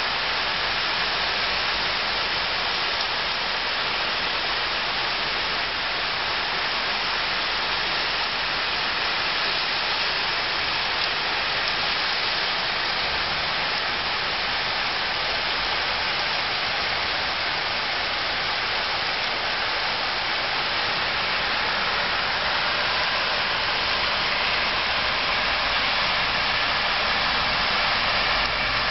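Heavy rain pouring steadily onto a road and pavement, a constant hiss, with car tyres swishing through standing water on the road.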